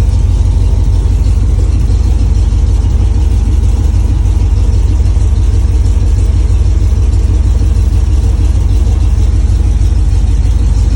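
Carbureted car engine idling steadily while it warms up after a cold start, with a fast, even low pulsing and no revving.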